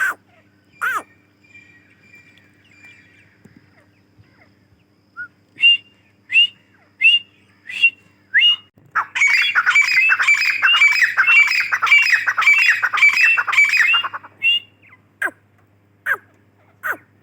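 Teetar (francolin) calling. A few sharp downward-sweeping notes, then a run of short repeated notes about a second apart. About nine seconds in, it breaks into a rapid dense chatter for about five seconds, followed by more single sharp notes near the end.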